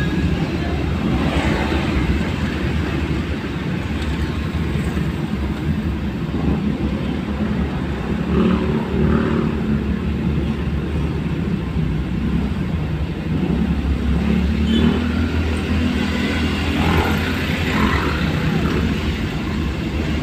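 Vehicle engine and road noise, a steady low rumble that swells a little now and then.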